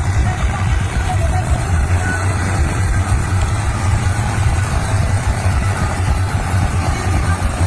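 Tractor engine running steadily, with a deep, even rumble.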